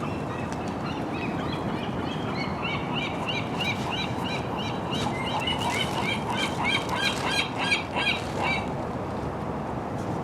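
Birds calling: a quick, busy run of short high calls over a steady background hiss, stopping abruptly about three-quarters of the way through.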